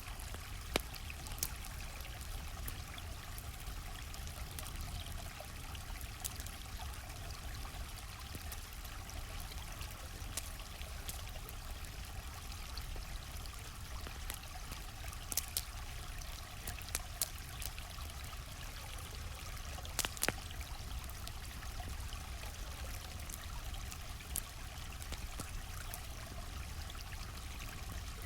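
Steadily flowing stream with a campfire crackling over it: a constant rush of water, broken by irregular sharp pops and snaps from the burning wood. The loudest pops come about a second in and around two-thirds of the way through.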